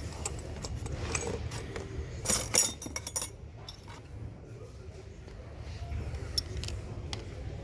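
Small metal parts clinking and rattling as they are handled, with a quick cluster of clinks about two and a half seconds in and a few lighter ones near the end.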